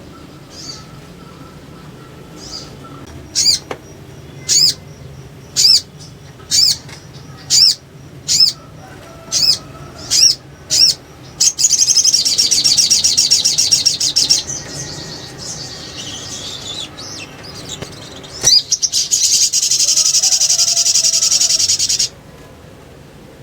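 Spiderhunter calling: a string of sharp, high single notes about once a second, then breaking into long, rapid chattering trills twice.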